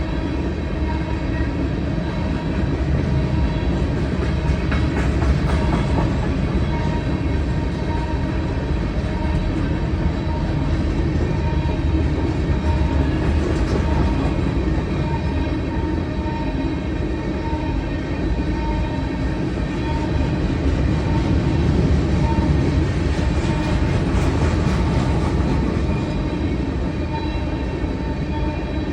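A train rolling steadily past, its cars giving a continuous heavy rumble and rattle. Clusters of clacks from wheels crossing rail joints stand out a few times.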